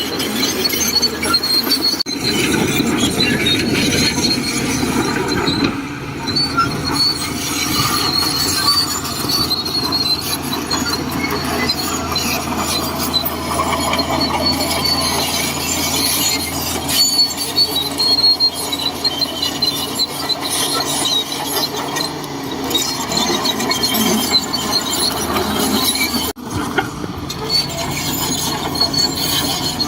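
Shantui DH17C2 crawler bulldozer working, its engine running under load with a high, wavering squeal and clatter from the steel tracks.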